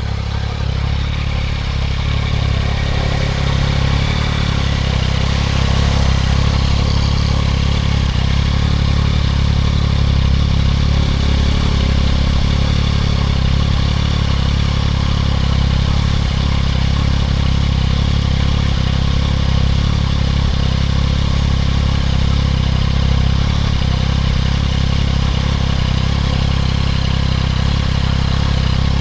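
2024 Yamaha MT-09 SP's inline three-cylinder engine running steadily through a Spark full aftermarket exhaust, with a deep, even exhaust note and no sharp revs.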